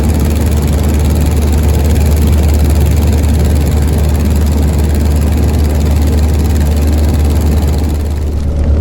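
A loud, steady engine rumble with a strong low hum, starting abruptly and holding level.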